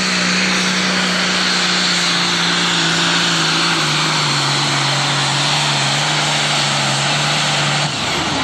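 Turbocharged diesel pulling tractor running at full throttle on a pull, a dense high whine and rush over a steady engine note. The engine note drops in pitch about halfway through under the load of the sled, then cuts off near the end as the engine is backed off.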